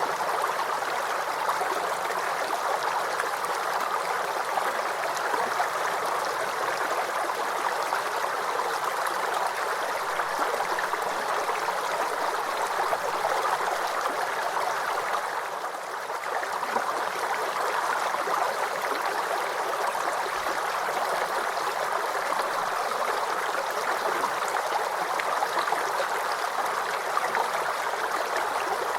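Brook water babbling and trickling in a steady, even gurgle, with a brief dip in level about halfway through.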